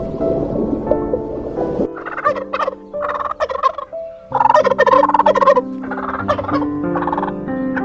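Turkey gobbling in several rapid warbling bursts, starting about two seconds in, over background music.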